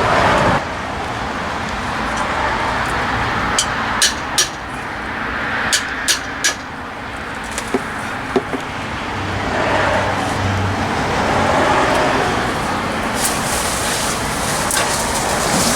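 A hammer striking metal, about eight sharp taps in small groups between about four and eight seconds in, over a steady background hiss.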